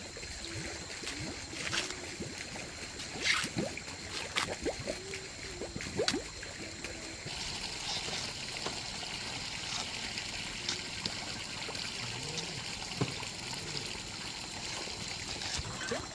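Water trickling steadily, with a few sharp light knocks in the first half.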